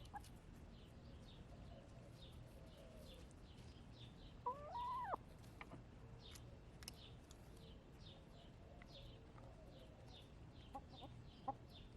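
Backyard hens clucking softly, with one louder drawn-out call that rises and falls about halfway through. Small wild birds chirp over and over in the background.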